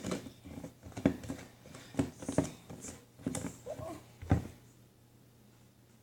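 Homemade slime being handled and squished: a string of about six short sticky clicks and pops, roughly one a second, that stop about four and a half seconds in.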